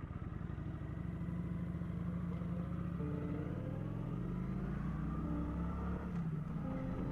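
Kawasaki Vulcan motorcycle engine running, with uneven pulsing in the first second before it settles into a steadier note.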